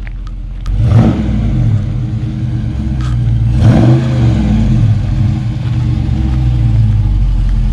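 Dodge Charger Scat Pack's 6.4-litre HEMI V8 running loud and low, with a sudden surge about a second in and a rev that rises and falls about four seconds in.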